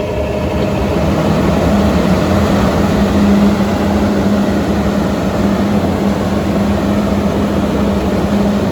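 Plastic Blower Co 3 HP fiberglass exhaust blower running: a loud, steady rush of air with a strong hum, getting a little louder over the first few seconds as it comes up to speed.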